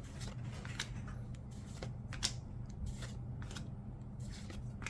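Paper trading cards being handled and slid one past another, a string of soft, irregular scrapes and flicks.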